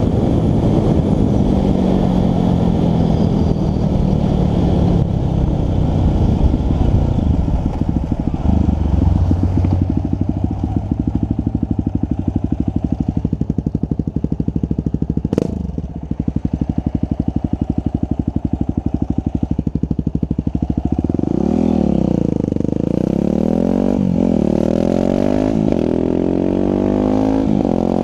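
Yamaha dirt bike's engine on the road: it winds down as the bike slows, runs low and even through a corner with one sharp click partway, then revs up again in several rising pulls, each dropping back as the next gear is taken.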